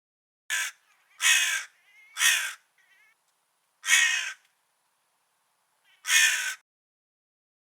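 Crow cawing: five harsh caws, the first short and quieter, three close together at the start, then two more after gaps of about two seconds.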